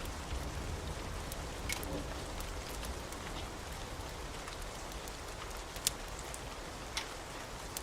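Steady rain with a few sharp pops of a crackling wood fire mixed in. A low rumble fades away over the first couple of seconds.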